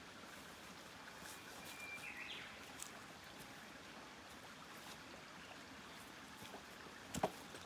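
Faint outdoor background hiss with a few scattered small clicks, a brief thin high tone about two seconds in, and a sharper double click near the end.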